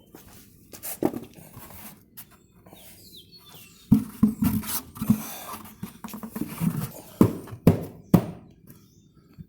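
Handling noises of a bee swarm trap being put together: scattered knocks, clicks and rustling, with a busier run of knocks about four seconds in and a few sharp ones near the end.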